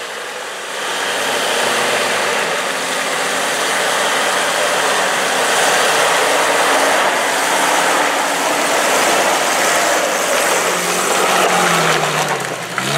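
Off-road Jeep engine running loudly under a steady rushing noise, its pitch rising, dipping and rising again near the end.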